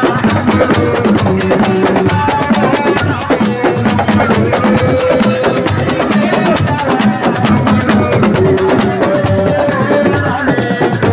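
Live assiko band music: dense, fast drumming with a melody held over it.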